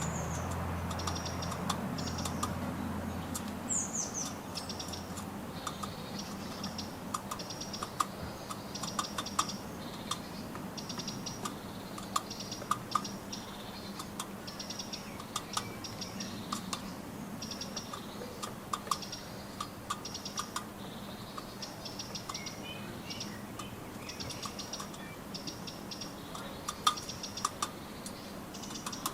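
Bird pecking at nuts: quick clusters of light, dry taps repeating every half second to a second, with a few short high chirps. A low rumble, like a passing vehicle, fades out in the first few seconds.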